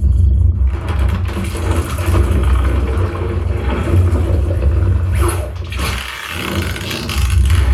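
Loud, continuous deep rumble with heavy bass from a cinematic sound-effects soundtrack, dipping briefly about six seconds in.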